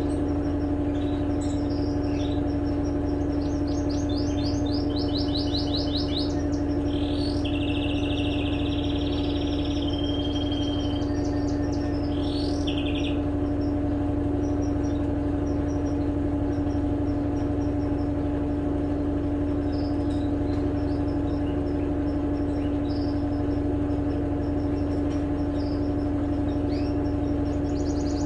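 Electrolux LTE12 top-load washing machine running with a steady, constant hum. Birds chirp over it in several short bursts during the first half, and again near the end.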